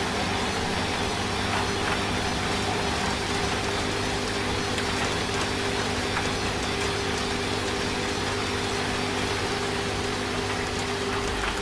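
Washing machine running with a steady motor hum, mixed with the even hiss of steady rain.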